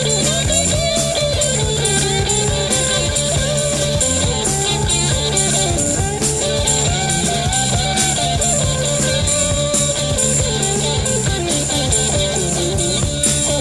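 Rock instrumental with an electric guitar lead whose notes bend up and down, over bass and a drum kit with constant cymbal hits.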